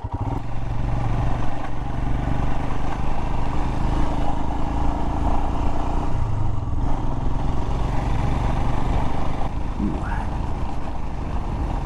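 Royal Enfield Himalayan single-cylinder motorcycle engine pulling away and running at riding speed, its note shifting about halfway through.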